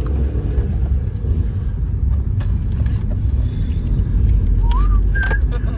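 Steady low rumble of a car's engine and road noise, heard from inside the cabin as the car drives off. A couple of short high squeaks come near the end.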